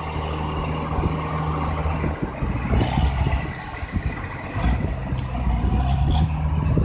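Tractor's diesel engine running with a steady note, which turns rough and uneven about two seconds in and settles back to a steady run near the end.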